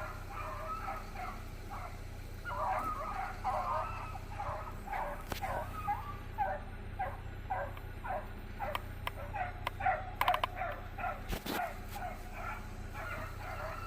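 A pack of beagles baying while running a rabbit, short hound cries coming two or three times a second, several dogs voicing over one another.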